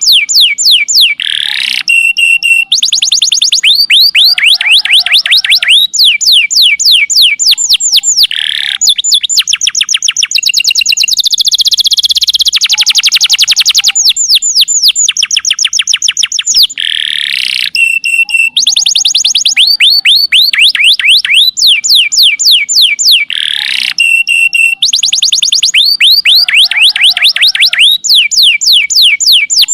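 Domestic canary singing a long, continuous song: rapid trills, each a fast run of identical descending whistled notes, alternating with short steady whistles and a few quick upward sweeps.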